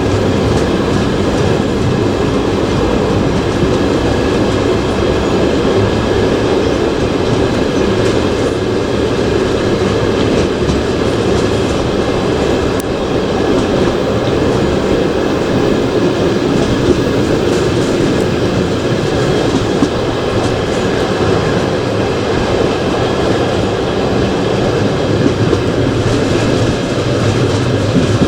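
Passenger train running along the line, heard from aboard: a steady, continuous running noise of the wheels on the rails.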